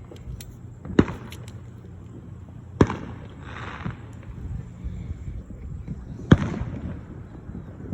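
Three sharp fireworks bangs, about a second in, near three seconds and past six seconds, each followed by a short echoing tail, with a brief hiss between the second and third.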